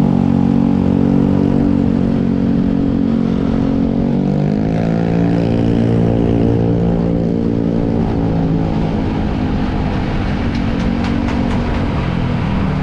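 Motorcycle engine running steadily under way, heard from the bike itself, with its note shifting about four and a half seconds in.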